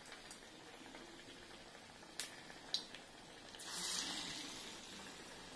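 Batata vada (batter-coated potato balls) deep-frying in hot oil: a faint steady sizzle, with two sharp clicks a little after two seconds in. Near four seconds a louder hiss of sizzling swells up and fades.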